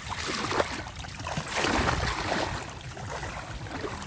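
Water sloshing and splashing in uneven surges, as when someone wades and gropes through shallow water by hand.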